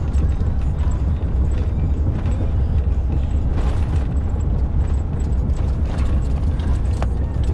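Inside a moving truck's cab: a steady low road and engine rumble with irregular knocks and rattles as the tyres hit the rough, broken old motorway surface, the pounding that the driver says ruins the chassis. A sharper knock comes near the end.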